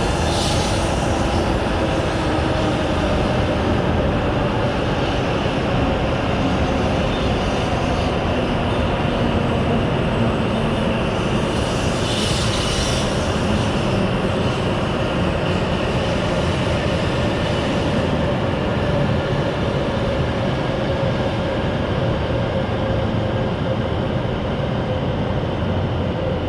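A train pulling into a station platform: a steady rumble of wheels and running gear, with faint whining tones that slowly shift in pitch.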